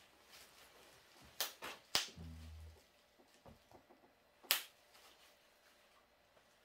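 A few sharp clicks, about a second and a half, two seconds and four and a half seconds in, the last the loudest, with a short low hum just after the second.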